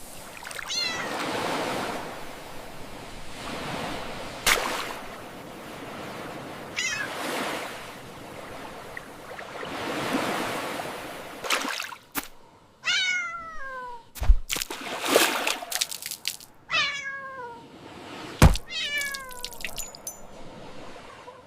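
A cat meowing several times, each meow falling in pitch, the last three louder and close together. Underneath, a rushing noise swells and fades in the first half, and a few sharp knocks fall between the meows.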